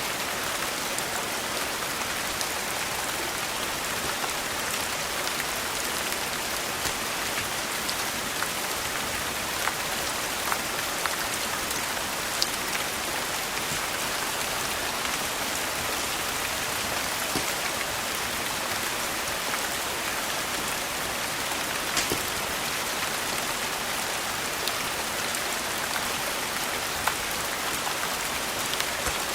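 Steady rain hissing, with scattered sharp crackles from a wood fire burning in a fireplace.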